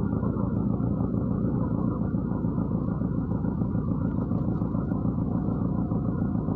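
MAZ-103 city bus on the move, heard from inside the cabin: a steady rumble of engine and road noise.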